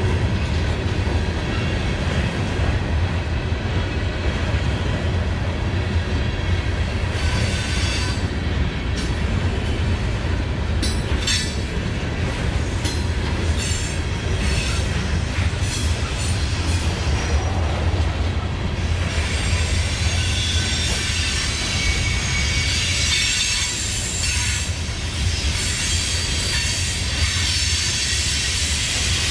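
Coal train's hopper cars rolling past on the rails: a steady low rumble of wheels on track, with high-pitched wheel squeal coming and going, strongest in the second half.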